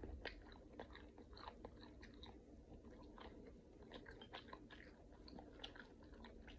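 Faint close-up chewing of a mouthful of boiled shrimp: soft wet mouth clicks and smacks, irregular, several a second.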